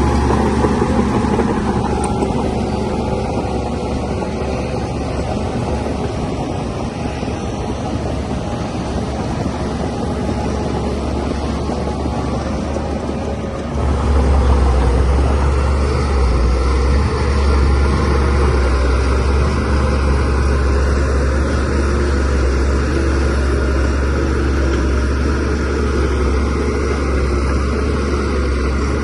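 DH17C3PRO bulldozer's diesel engine running steadily, getting louder and heavier about halfway through as it takes more throttle.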